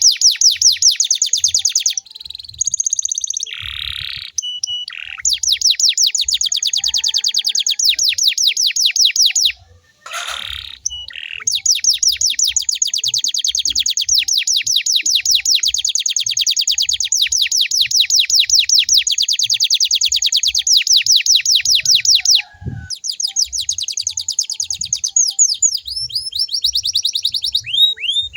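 Domestic canary singing long, rapid rolling trills of evenly repeated downward-sweeping notes. Short pauses and brief changes of phrase break the trills a few times.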